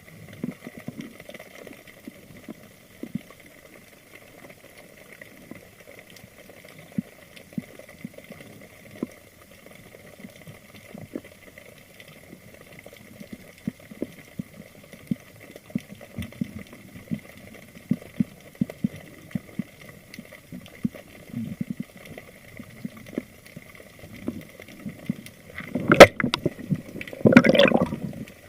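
Underwater ambience: a low wash full of small crackles and clicks, with a faint steady high whine. Near the end there is one sharp, loud crack, followed by a second or so of gushing, bubbling water.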